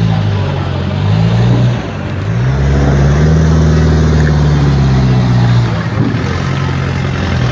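A motor vehicle engine running close by, dipping, then revving up about two seconds in, holding steady, and easing off near the end.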